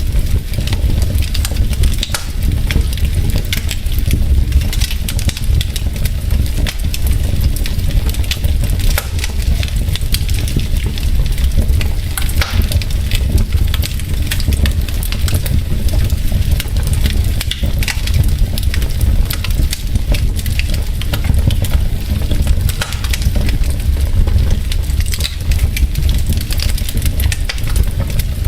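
Wood logs burning in a fireplace, crackling and popping in a dense, irregular patter over a steady low rumble.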